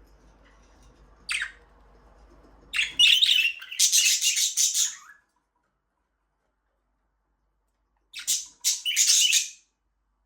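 Budgerigars chirping and chattering in short bursts: a single call about a second in, a busy run of high chirps from about three to five seconds, then another burst near the end after a silent gap.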